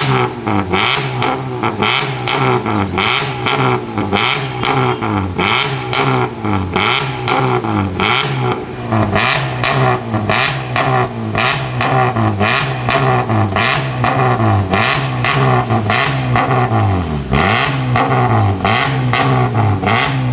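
Honda Civic engine through an aftermarket XEX full exhaust, revved in quick throttle blips over and over, about once a second, with the pitch rising and dropping back each time.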